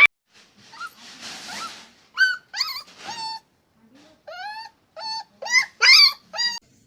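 An animal giving a series of short, high-pitched calls, about ten in quick uneven runs, some bending in pitch.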